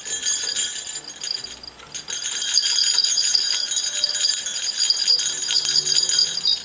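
Small metal bell on a budgie toy jingling and rattling rapidly: a brief bout, then a longer continuous jingle from about two seconds in that stops suddenly near the end.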